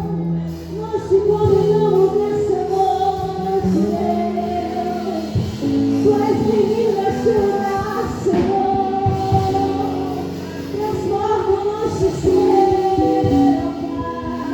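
Worship song: a woman singing a melody over sustained keyboard-like accompaniment, in a large room.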